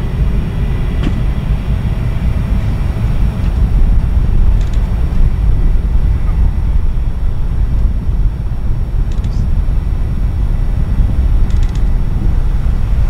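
Airbus A320's jet engines running: a loud, steady low rumble, with a few faint clicks over it.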